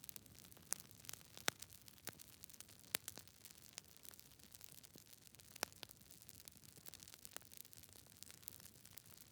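Campfire crackling: irregular sharp pops and snaps, a few louder ones standing out, over a faint steady hiss.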